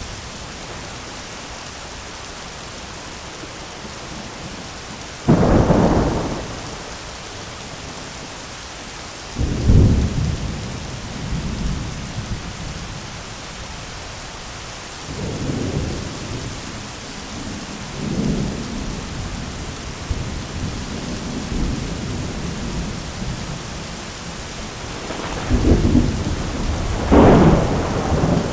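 Steady heavy rain hissing, with rolls of thunder breaking in several times: sharp cracks about five and ten seconds in, softer rumbles between, and a long loud roll near the end.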